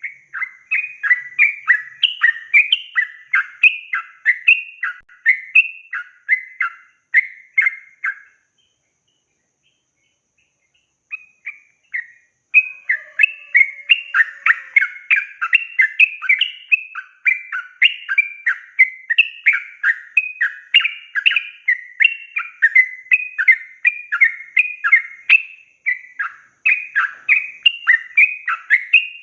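Yellow-vented bulbul (trucukan) singing a long, fast run of bubbly chattering notes. The run breaks off about eight seconds in, and after a short burst the song resumes and continues without a break.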